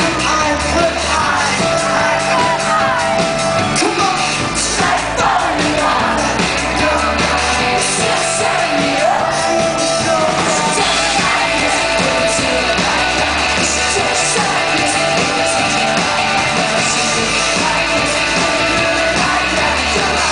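Live pop-rock band playing with a lead singer, loud and without a break, with the crowd yelling along.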